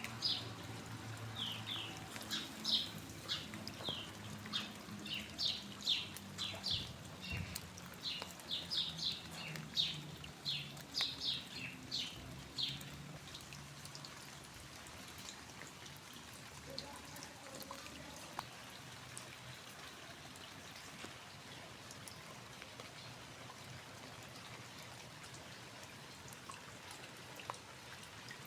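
Steady rain falling. For about the first half a bird chirps over it, quick short calls one after another; after that only the rain is heard, with scattered drips.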